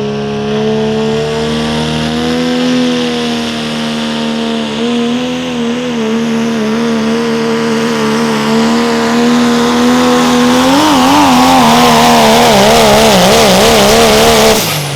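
Diesel pickup truck engine at full throttle on a truck-pull run, holding a high, steady note under load. About ten seconds in the pitch begins to waver up and down and the sound grows louder, then it cuts off suddenly near the end as the throttle is released.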